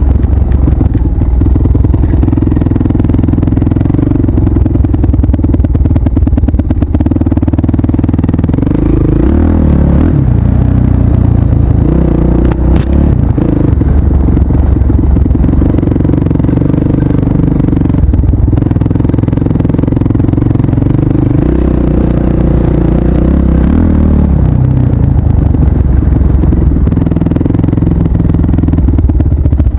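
Off-road trail motorcycle engine running close to the microphone under changing throttle. The pitch drops twice, about a third of the way in and again near the end, then climbs back as the rider opens the throttle.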